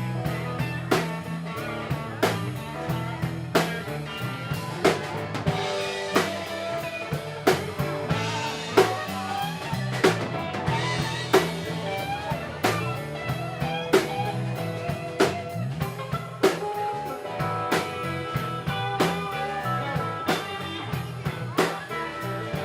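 Live band playing an instrumental stretch with a drum kit and guitar, a steady beat of about one drum hit every 0.8 seconds.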